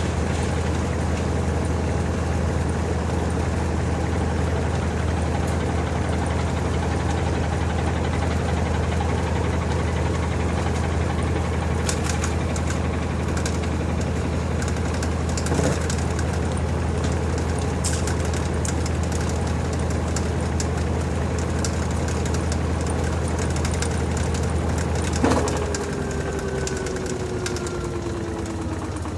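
LG TurboDrum top-loading washing machine spinning its drum at speed with a steady low hum and occasional light clicks; about 25 seconds in there is a clunk and the motor drops out, and the drum coasts down with a whine falling steadily in pitch as the spin ends.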